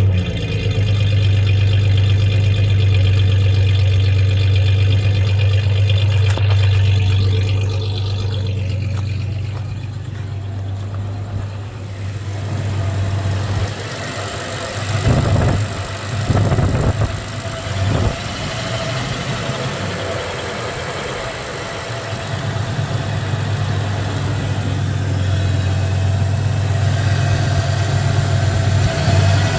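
1993 Ford Ranger's 3.0-litre V6 idling with a misfire that is being traced to one cylinder. The steady low drone drops away about a third of the way in, a few brief surges come around the middle, then the idle settles back into a steady drone.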